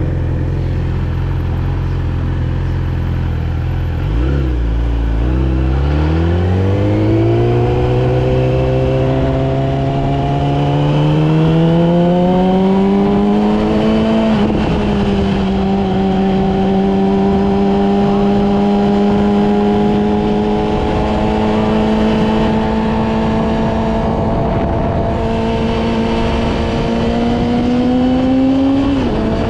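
Yamaha R6 inline-four engine running low at first, then pulling away about four seconds in, its revs climbing smoothly for about ten seconds. It then holds a steady cruise, rising slightly and dropping back briefly near the end.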